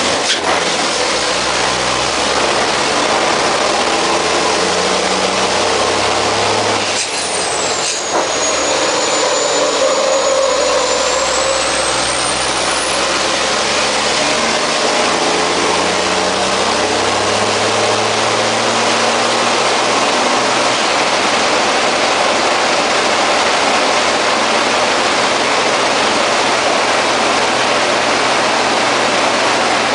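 MAN race truck's turbodiesel engine pulling hard, heard inside the cab, its pitch climbing and dropping with gear changes. A high whistle glides down and back up from about seven seconds in, and two short knocks come about seven and eight seconds in.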